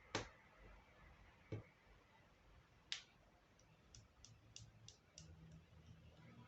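Near silence broken by a few short, faint clicks and taps: one just after the start, a sharper one about three seconds in, and a run of light ticks after it.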